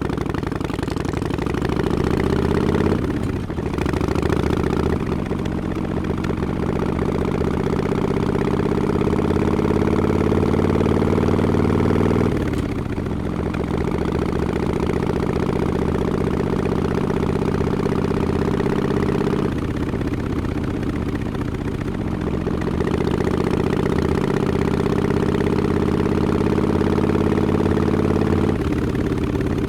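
Harley-Davidson XL1200X Forty-Eight's air-cooled V-twin running through Vance & Hines Short Shots pipes with quiet baffles, pulling under load while riding. The exhaust note climbs slowly, then breaks off and drops several times as the throttle is eased and reopened.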